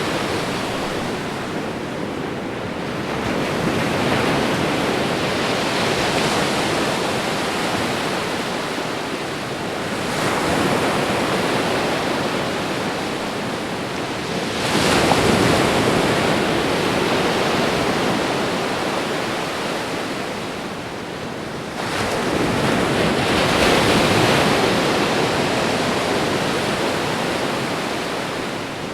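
Ocean waves breaking and washing up on a shore in a continuous rush, surging every five to seven seconds, with the sharpest surges about halfway through and again about three quarters of the way in.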